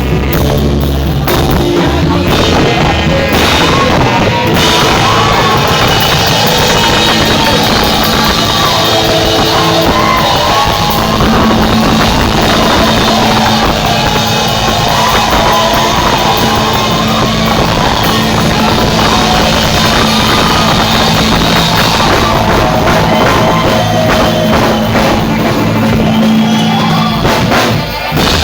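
Loud band music with a drum kit keeping the beat and a wavering melody line over it, with a short drop in level just before the end.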